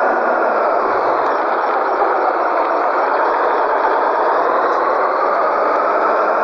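Scania 113G truck's six-cylinder diesel engine running steadily, its pitch drifting only slightly.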